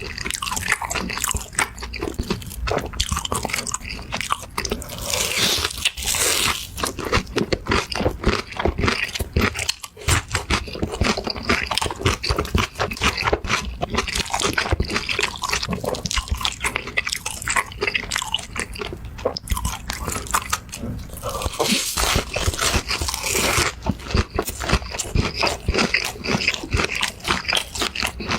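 Close-miked eating: crunchy bites into fried chicken and chewing, a dense, continuous run of crisp crunches.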